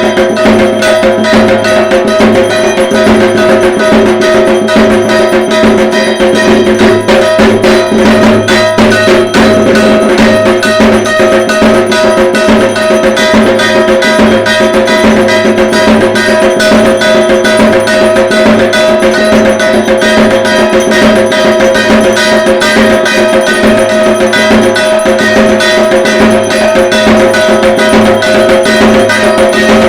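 Dhak drums beaten in a fast, continuous rhythm, with steady metallic ringing tones sounding under the strokes throughout: Durga Puja dhak music.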